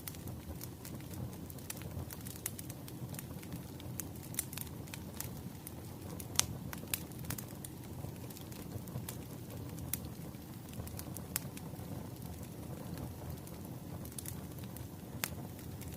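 Wood fire burning, with a steady low rush under frequent small crackles and pops, one sharp pop about six seconds in.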